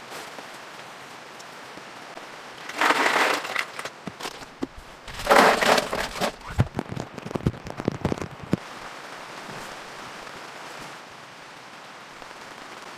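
Steady hiss of rain, with a loud rustling burst about three seconds in and a run of sharp clicks and crackles from about five to eight and a half seconds in.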